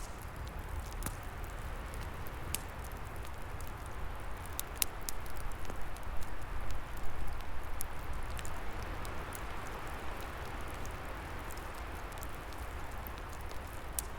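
Wood fire crackling with scattered sharp pops over a low roar and a steady rush of wind in the trees. The sound grows louder and busier for a few seconds in the middle.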